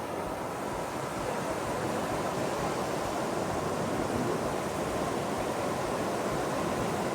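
Steady rushing noise of surf and wind at the shore: an even hiss with no distinct events.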